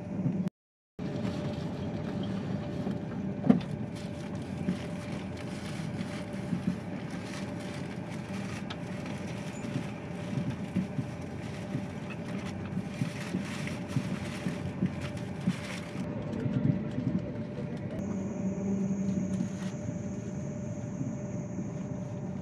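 Thalys high-speed train running, heard from inside the passenger car: a steady rumble with a constant hum. The sound cuts out for about half a second just after the start, a single sharp knock comes about three and a half seconds in, and a faint high whistle sounds for a couple of seconds about eighteen seconds in.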